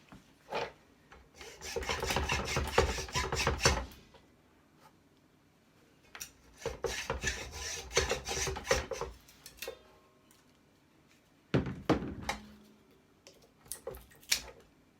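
Hand tool scraping and cutting at the winding of a microwave oven transformer to expose whether the wire is copper or aluminium, in two bursts of rapid rasping strokes. About two-thirds of the way through there is a single knock with a short ring, then a few light clicks near the end.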